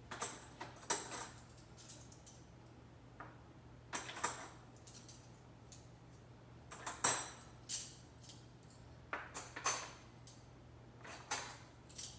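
Metal forks clinking against one another as they are handled and put away, in short clusters of sharp clinks every two to three seconds.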